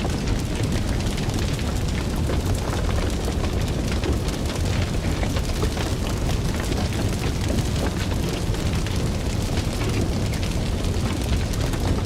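Fire burning steadily, a low rumbling roar with many small crackles and pops throughout.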